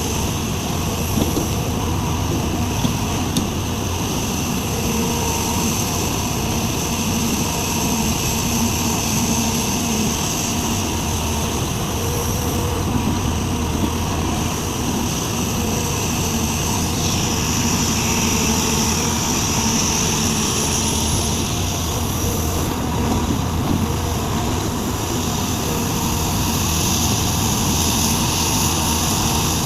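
Sumitomo SH350 hydraulic excavator's diesel engine running steadily under working load, with a low hum and a steady high whine, as it digs and loads soil into a dump truck.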